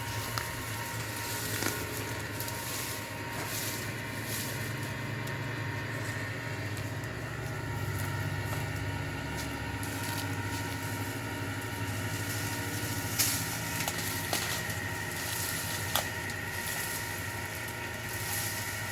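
A steady low mechanical hum, like an engine or motor running, with a few sharp clicks scattered through it.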